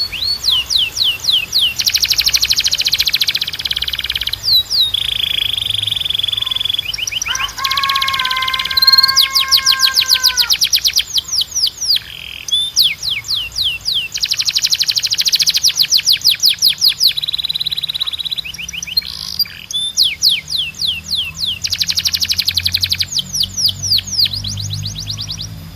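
Domestic canary singing a long, fast song: rapid runs of repeated down-slurred notes and trills, with a held, lower-pitched note about eight to ten seconds in.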